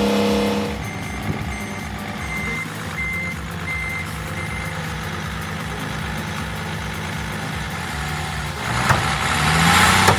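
A heavy vehicle's engine running, with its reversing alarm beeping about six times in an even rhythm. The engine grows louder near the end.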